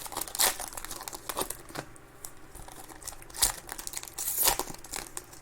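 Baseball card pack wrappers crinkling and tearing as packs are ripped open and handled, in short irregular crackles.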